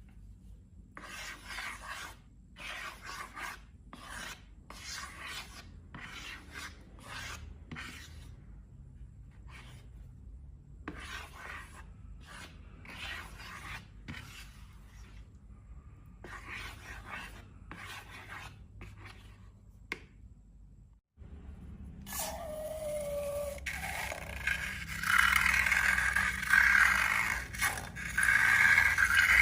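Short scraping strokes repeated with gaps between them, about one or two a second. After a brief cut-out they give way to a louder, denser run of scraping with a short falling squeak at its start.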